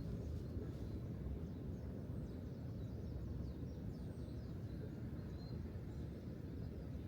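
Outdoor ambience: a steady low rumble with faint, short, high bird chirps scattered through it.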